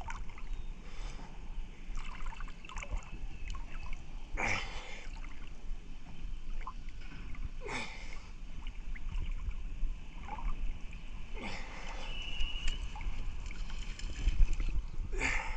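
Water splashing and lapping in repeated surges about every three to four seconds over a steady wash of water noise, with a brief high tone a little past the middle.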